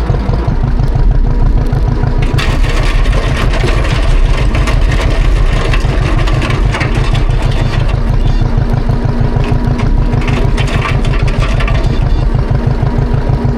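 John Deere 530's two-cylinder tractor engine running with a fast, even low beat. A rushing hiss joins in about two seconds in.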